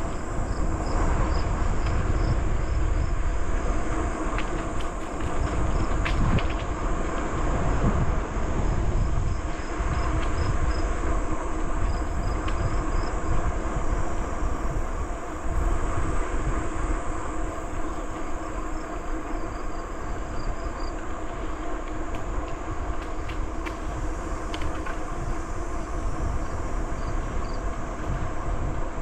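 Bicycle rolling along a trail: steady tyre rumble and wind buffeting the microphone, with runs of quick, high chirps in the background.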